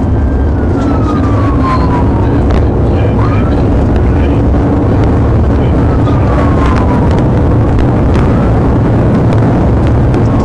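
Police car driving at speed in a pursuit: loud, steady engine and road noise, with a siren's wail sliding down in pitch twice, faint beneath it.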